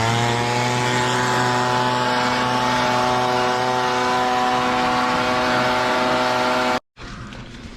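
An engine speeds up quickly, then runs steadily at high speed and cuts off suddenly near the end.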